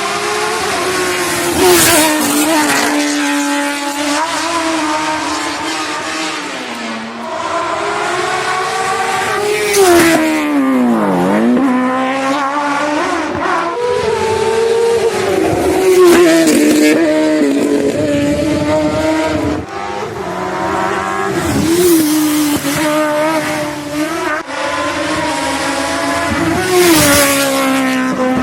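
Race car engines revving hard on a hillclimb course, pitch rising and falling repeatedly through gear changes and throttle lifts. About eleven seconds in, the revs drop sharply and then climb again, and there are several short loud peaks across the stretch.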